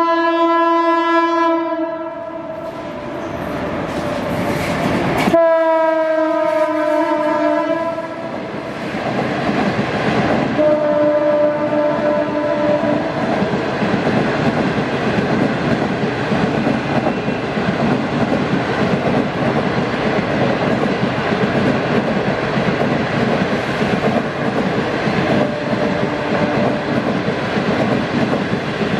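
Locomotive horn sounding several blasts: a long one at the start, another long one a few seconds later that sags slightly in pitch, and a shorter, weaker one about ten seconds in. Passenger coaches then roll past with a steady rumble of wheels on rail.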